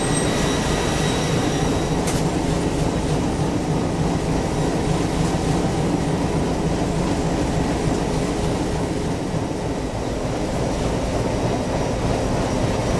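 Ship's engine room machinery: large marine diesel engines running at a steady, loud drone, unchanging throughout.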